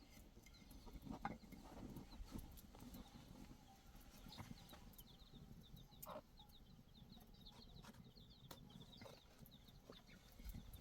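Faint bird chirping: a run of short, quick high chirps in the second half, over a low rumble with scattered clicks.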